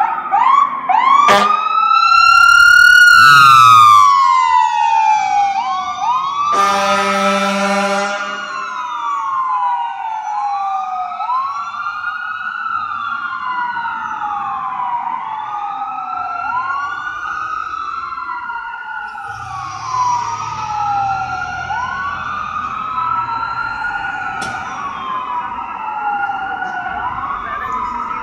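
Fire apparatus siren switching from a fast yelp to a rising wail, loudest a few seconds in, then one air-horn blast of about a second and a half. The siren then carries on in slow repeating wails as the rig moves off.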